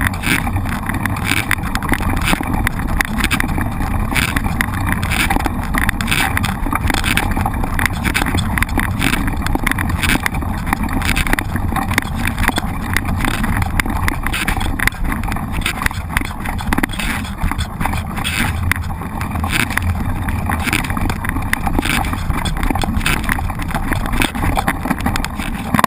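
Mountain bike ridden over rough ground: a steady rush of wind and rolling noise, broken by frequent irregular knocks and rattles from the bike.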